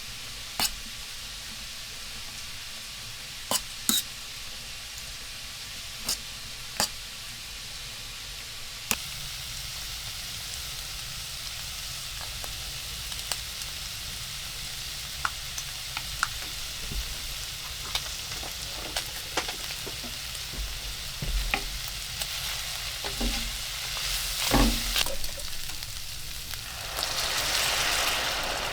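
Food frying in a pan: a steady sizzle with scattered sharp pops, a few knocks of stirring, and a louder surge of sizzling near the end.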